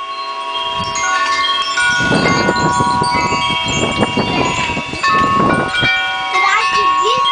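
Wind chimes ringing at many pitches as a windstorm blows, with loud gusts of wind rushing from about two seconds in until nearly six seconds.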